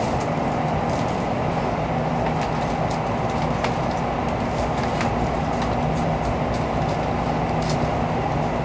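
Steady running noise inside a Shinkansen car: an even rumble of the train at speed with a steady low hum and a few faint clicks.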